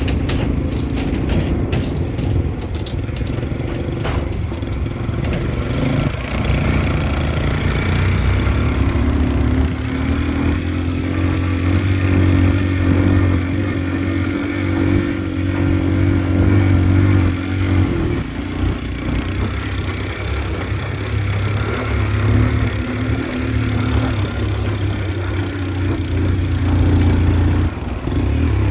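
Motorbike engine running while riding, its note rising and falling as the throttle changes.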